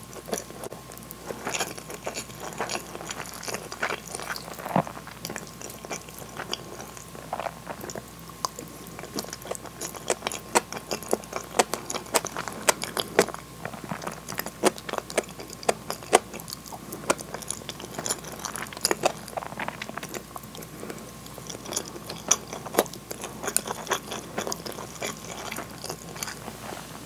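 Close-miked chewing and mouth sounds of a person eating rice and hamburg steak: irregular wet smacks and clicks, several a second.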